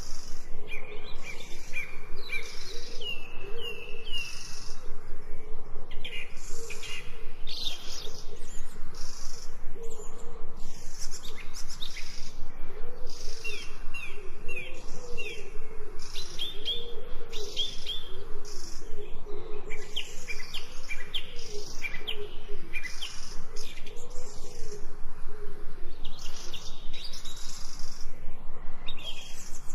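Birds calling: many short, quick chirps repeated in series over a lower, wavering call.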